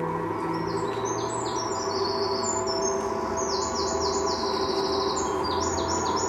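Birds chirping in quick runs of high notes over a low, steady drone.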